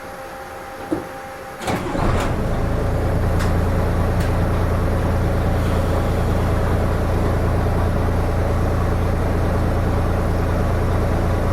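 Diesel engine of a Hino Rainbow RM route bus starting up after sitting switched off, heard from inside the cabin: a click about two seconds in, then the engine catches and settles into a steady idle.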